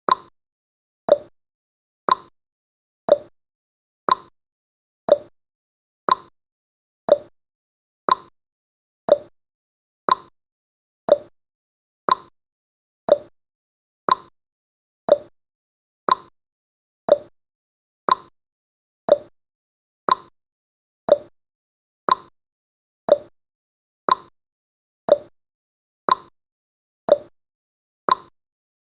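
Clock ticking sound effect of a countdown timer: short clicks once a second, alternating higher and lower in pitch like a tick-tock.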